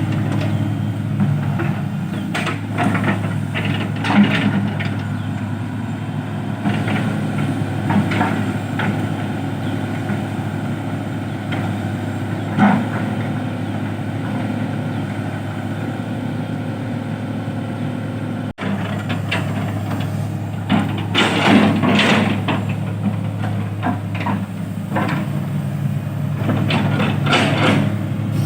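Heavy diesel engine running steadily at low revs, with scattered knocks and clatters that come thicker near the end.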